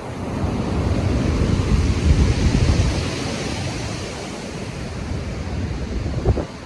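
Stormy sea surf: a heavy wave breaks and rushes in, swelling over the first two seconds and then slowly easing. There is a deep rumble underneath, and a brief sharp thump comes near the end.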